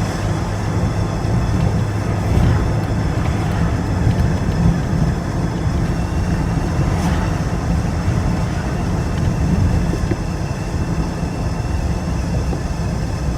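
A Jeep driving with a loud, steady low rumble. The noise comes from a fault the owner has not yet been able to trace.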